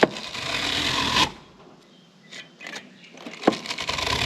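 A brush scraping upward through the fins of an RV rooftop air conditioner's coil, two strokes about a second long, each starting with a click; brushing bottom to top straightens bent fins as it goes.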